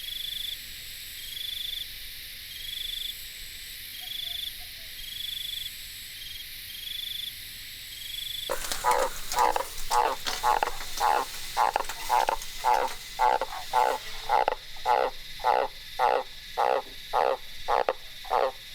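A steady series of short high chirps, then, about halfway through and abruptly, a frog croaking loudly in a fast repeated series of about two calls a second.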